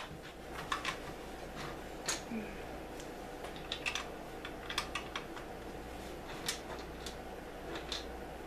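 Plastic LEGO pieces being handled and snapped together: scattered sharp clicks, a dozen or so, irregularly spaced, over a faint steady hum.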